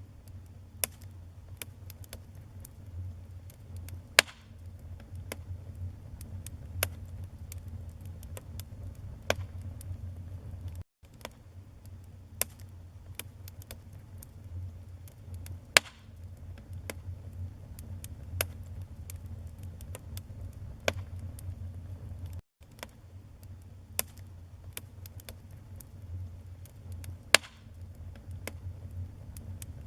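Wood fire crackling: frequent small snaps and pops over a steady low rumble of burning flames, with three louder pops. The sound cuts out for an instant twice.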